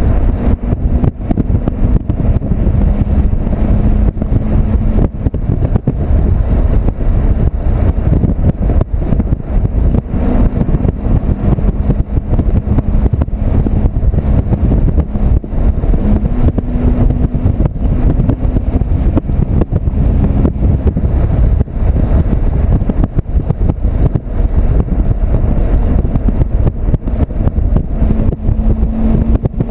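Volkswagen Golf 2.0 TDI diesel's exhaust, fitted with a 3-inch high-flow-cat system, droning while the car drives, under heavy wind noise on the microphone. The low drone shifts in pitch a few times.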